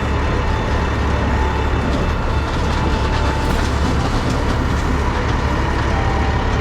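Heavy claw truck's diesel engine running steadily with a strong low rumble, with a few faint knocks.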